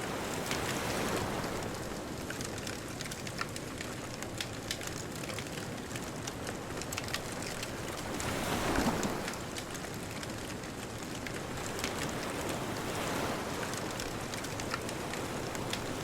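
Wood fire crackling with many small sharp pops over a steady wash of ocean surf; waves swell about a second in, loudest just before the middle, and again near the end.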